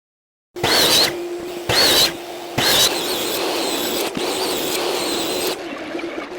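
A woodworking power tool running with a steady hum and a wavering high whine, getting louder three times, the last time for about three seconds, then easing off near the end.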